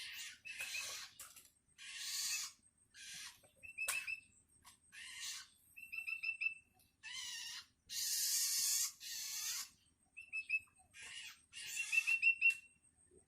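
Long-tailed shrike chick giving about a dozen harsh, scratchy begging calls, each under a second long, with quick runs of three or four high pip notes between them: a hungry fledgling calling for its parent.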